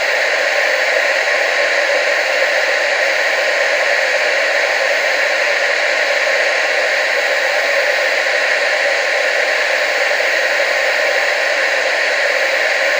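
Television static: a steady, loud hiss with no changes, its energy in the middle and upper range and little bass.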